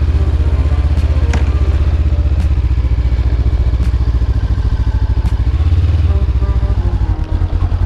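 Honda CB500F's parallel-twin engine running steadily at low revs, with a brief rise in revs about six seconds in and a short sag about a second later; the owner thinks it is low on gas.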